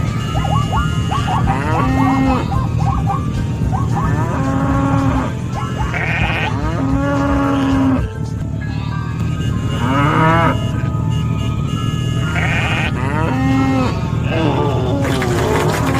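Farm animal calls, mostly cattle mooing and sheep bleating, repeating every couple of seconds over a steady low rumble and music.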